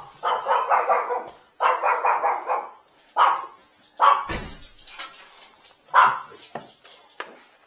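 Small dog barking: two runs of rapid yapping, then a few single barks. A dull thump about four seconds in.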